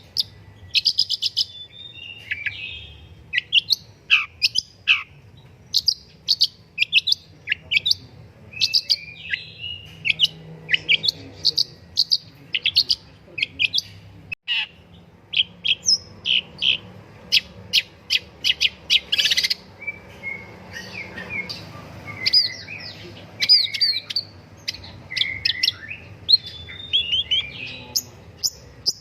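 Long-tailed shrike singing a fast, varied song of short chirps, trills and down-slurred whistled notes, with a very brief break about halfway through.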